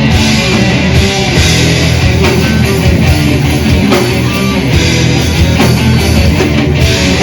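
A death/thrash metal band playing live: distorted electric guitars and a drum kit at full volume, dense and steady.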